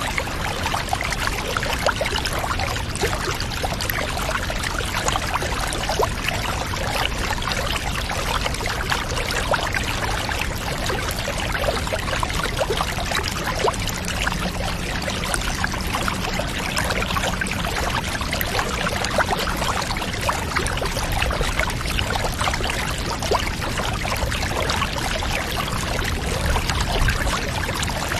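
Bath water pouring steadily from a tap, an even rush of running water dense with small splashes and patters. A faint low hum joins it for several seconds in the middle.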